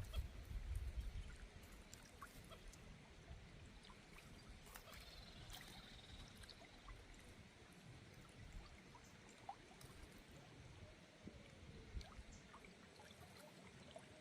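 Near silence: faint outdoor ambience with a low rumble in the first second or so, scattered faint ticks, and a faint high chirp about five seconds in.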